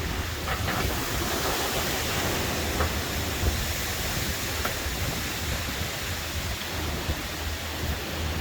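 Thunderstorm wind and rain: a steady, loud rushing noise with a low rumble underneath and a few faint ticks.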